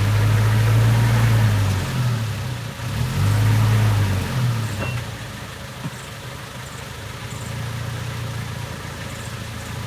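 Motor vehicle engine running, pulling hard in two loud surges during the first four and a half seconds, then settling to a steadier, quieter run.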